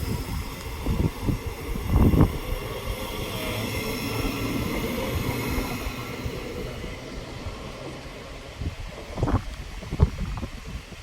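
A train running past, a steady rumble and hiss that fades away over the second half. Gusts of wind thump on the microphone about two seconds in and again near the end.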